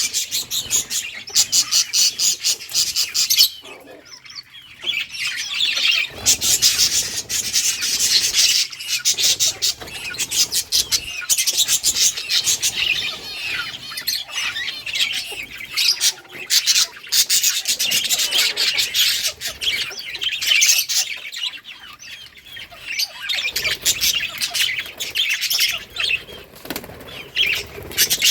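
A flock of budgerigars chirping and warbling in constant, busy chatter, with a brief lull about four seconds in.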